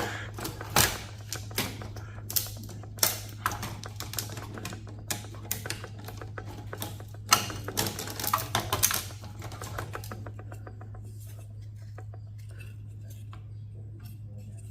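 Irregular clicks, taps and clatter of hand tools working small metal and plastic server parts, stopping about ten seconds in, over a steady low hum.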